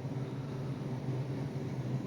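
Steady background hiss with a faint low hum, with no distinct event.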